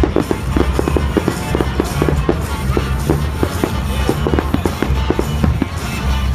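Fireworks going off in quick succession, many short cracks and pops a second, over music with a steady bass line.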